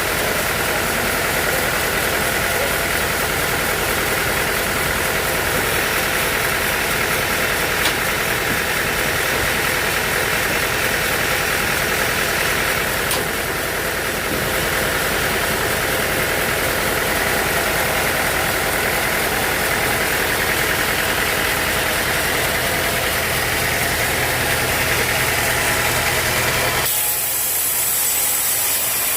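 An engine running steadily at a constant pitch. About two seconds before the end it switches abruptly to a different, hissier machine noise.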